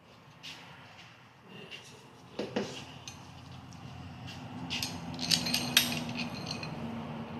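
Metal engine parts being handled by hand: scattered sharp metallic clinks and taps, which bunch together and get louder about two-thirds of the way in.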